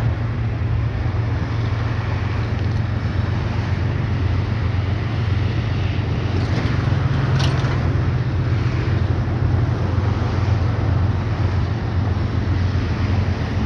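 Train passing close by: a steady, loud low rumble of diesel locomotive engines together with wheels running on the rails.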